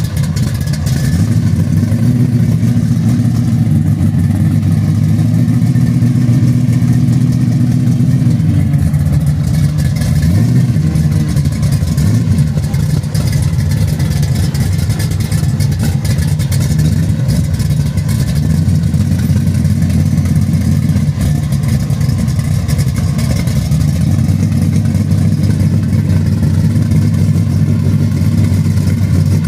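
Chevrolet Nova SS V8 running at low speed through its exhaust as the car creeps forward, a steady low-pitched engine note that briefly shifts in pitch about ten seconds in.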